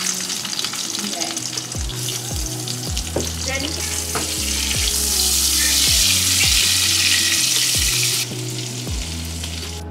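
Salmon fillet sizzling skin-side down in hot oil and butter in a nonstick pan, the sizzle growing louder about halfway through and easing off near the end, over background music with a steady beat.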